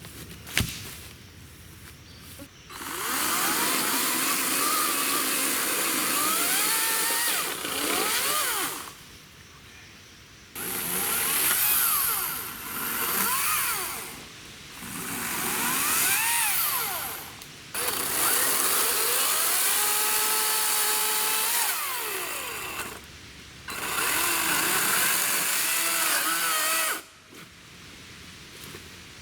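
EGO 56-volt battery chainsaw with an 18-inch bar cutting downed logs in five runs of a few seconds each. Its motor whine glides up and down in pitch as the chain loads and frees in the wood. A sharp click sounds about half a second in.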